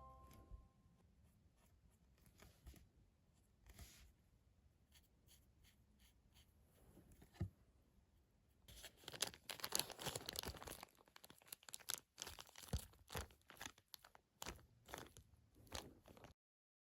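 Crafting materials being handled: faint scattered clicks, then from about nine seconds in a dense run of crinkling and rustling that stops abruptly near the end.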